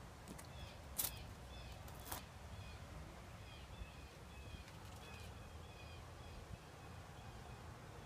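Small birds chirping in the background, short high notes repeating many times, over a steady low rumble. Two sharp clicks stand out, about one and two seconds in.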